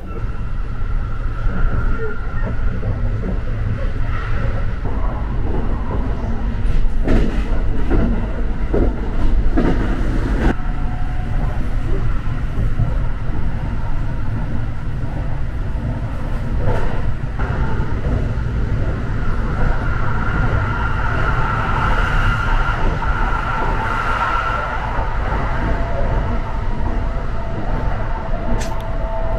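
Running noise inside a Kintetsu Hinotori express train car at about 120 km/h: a steady low rumble of wheels and running gear, with a faint whine coming and going in the second half.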